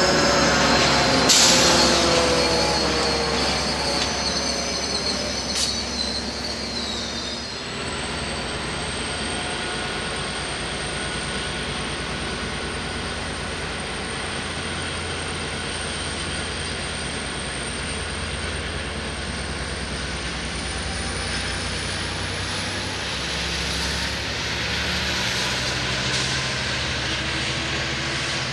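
Commuter train rolling past on steel rails, its wheels squealing. In the first few seconds the squeal tones fall in pitch, then the train settles into a steady rolling noise over a low hum.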